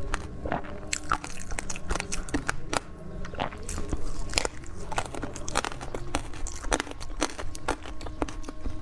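Close-miked eating: someone bites and chews crunchy food, with many sharp, irregular crackles and crunches.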